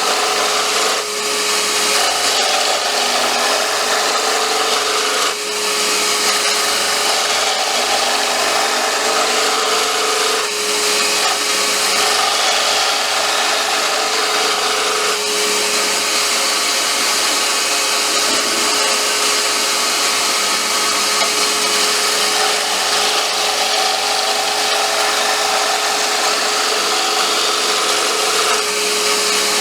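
Lathe running with a steady motor whine while a tool cuts into the spinning popper lure blank in offset turning; the cutting noise changes every few seconds as the tool is moved along.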